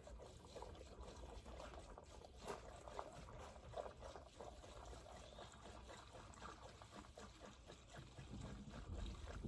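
Faint trickle of gasoline being poured from a can into the riding mower's empty fuel tank.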